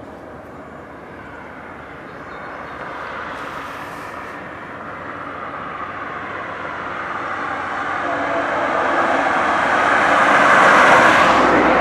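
VIA Rail F40PH-2D diesel locomotives approaching with their engines running, growing steadily louder until they pass close about eleven seconds in.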